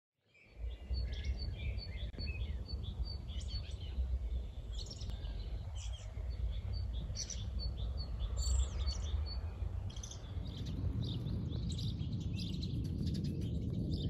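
Dawn birdsong: several small birds chirping and trilling, with a quick run of evenly repeated high notes in the first few seconds, over a steady low rumble.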